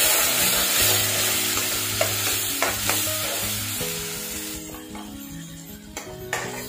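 Ginger-garlic paste and spiced onion masala sizzling in hot oil in a metal kadai as they are stirred with a metal spoon, which knocks against the pan a few times. The sizzle dies down about four and a half seconds in.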